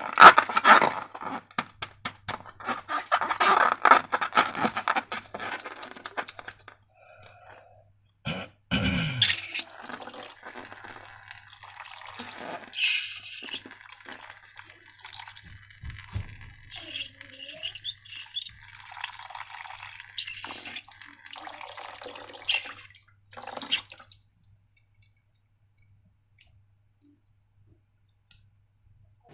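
Slime being mixed and squished: dense, rapid wet clicking and squelching for the first six seconds, a thud about nine seconds in, then scattered wet sticky sounds. It stops about five seconds before the end.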